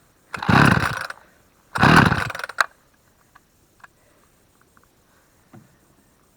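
Husqvarna 44 two-stroke chainsaw being pull-started: two hard pulls of the starter cord, each a loud rasping burst under a second long, followed by a sharp click. The engine does not catch and run.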